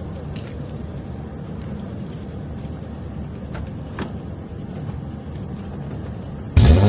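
Car engine cold-starting near the end: a sudden loud catch, its pitch climbing as it revs up and then settling. Before it there are several seconds of low background noise with a few small clicks.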